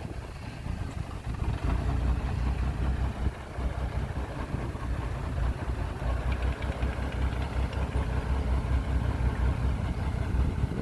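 Diesel engine of heavy earthmoving equipment running steadily with a deep rumble.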